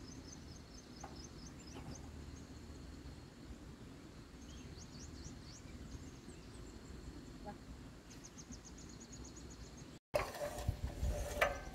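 Faint outdoor rural background with a bird's high, rapid chirping trills, three short bouts of evenly repeated notes. About ten seconds in, the sound cuts out briefly and a louder, noisier sound with sharp clicks begins.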